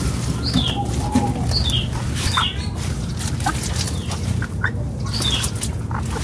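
A small bird chirping repeatedly, with short falling notes roughly once a second, over a steady low hum and a few light clicks.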